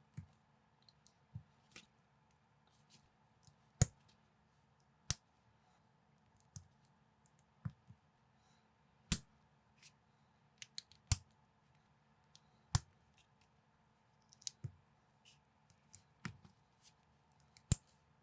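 LEGO-compatible plastic building bricks clicking as they are handled and snapped together: sharp, irregular clicks about a second apart, over a faint steady hum.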